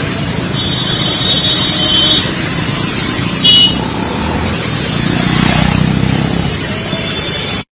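Road traffic with vehicle engines running and horns honking: a longer horn sounds from about half a second in to two seconds, and a short, loud toot comes about three and a half seconds in.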